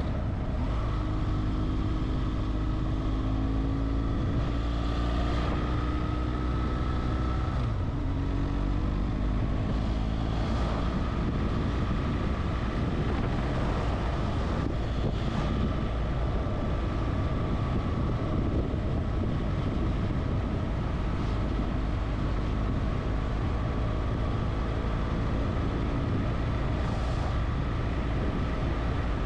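Motorcycle engine running under way, its note shifting in pitch over the first several seconds, over a steady low rush of wind and road noise.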